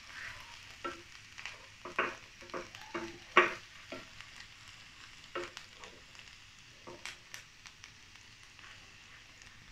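Chopped garlic and ginger sizzling in oil in a nonstick frying pan, stirred with a silicone spatula. Irregular taps and scrapes of the spatula against the pan, the loudest about three and a half seconds in, grow sparser near the end.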